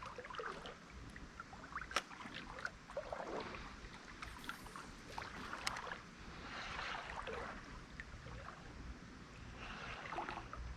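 Creek water sloshing and splashing in irregular patches, with scattered small clicks and knocks, one sharper click about two seconds in.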